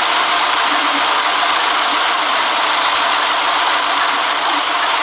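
City bus running, giving a steady, even mix of engine and road noise.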